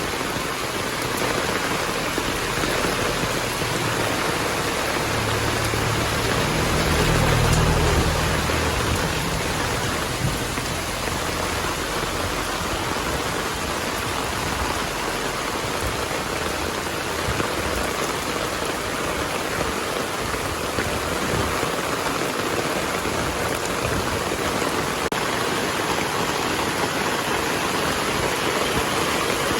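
Heavy rain falling steadily. A low rumble swells and fades between about five and nine seconds in.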